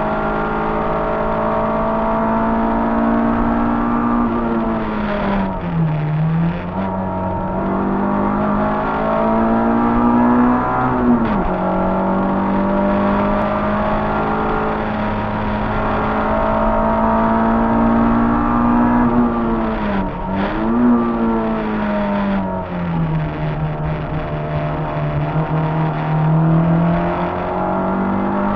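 Peugeot 106 1.3 rally car's four-cylinder engine heard from inside the cabin, running high in the revs at full throttle. Its pitch dips sharply and climbs back a few times, about six, eleven and twenty seconds in, and sags lower for a few seconds near the end before rising again.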